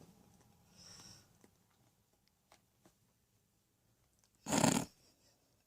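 African grey parrot in courtship display: a faint hiss about a second in, then one short, loud, harsh, unpitched call near the end.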